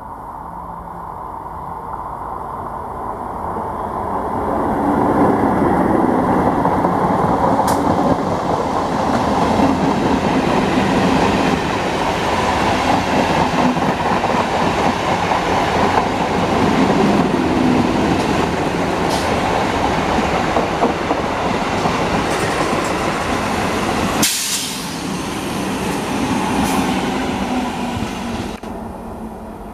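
Old-type green-and-yellow electric multiple unit (EMU) local train running past on the rails: a dense wheel rumble and rattle builds over the first few seconds as it nears, then holds loud with a few sharp clacks. About 24 seconds in the sound breaks off abruptly and a second EMU of the same type is heard approaching.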